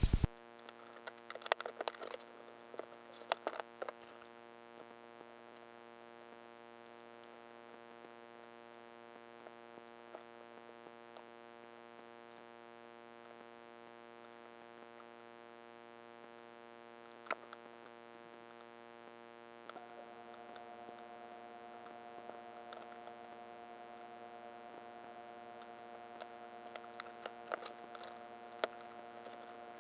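Scattered faint clicks and taps of small parts being handled as an airsoft rifle's hop-up is taken apart to swap in an R-hop bucking, over a steady electrical hum. The clicks come in clusters during the first few seconds and again near the end.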